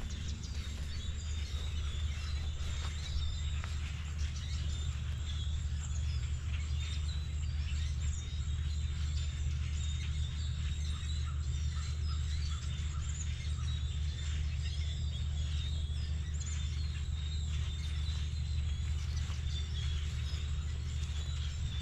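Small birds chirping and calling over and over, over a steady low rumble.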